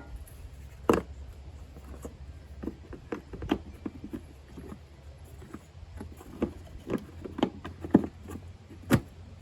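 Irregular clicks and knocks of plastic parts being handled as a cap is fitted back on over a long spray straw threaded through a notch in it; the loudest knocks come about a second in and near the end.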